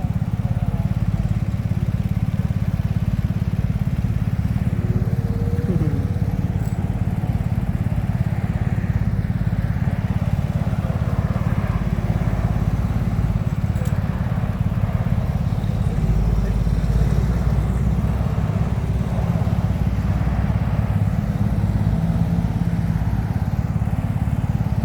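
Steady low rumble of vehicle engines running, with no clear start or stop, a little heavier about two-thirds of the way in.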